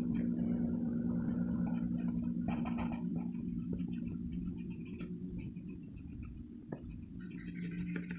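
Pencil scratching on paper in short irregular strokes, over a steady low electrical or fan hum.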